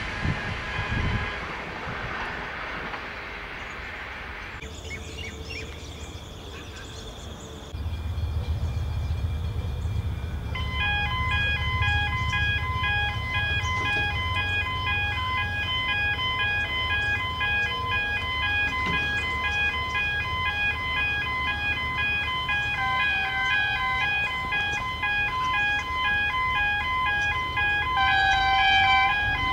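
A passing train's noise fades away over the first few seconds. From about eight seconds a low rumble sets in, and from about ten seconds a repeating electronic chime of several notes pulses steadily over it.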